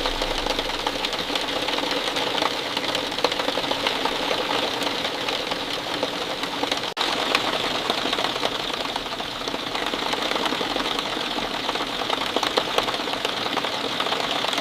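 Steady rain falling, a dense, even patter of many drops, with a momentary dropout about seven seconds in.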